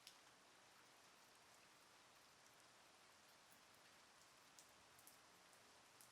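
Light rain: a faint steady hiss, with a few single drops tapping sharply, one just at the start and a few near the end.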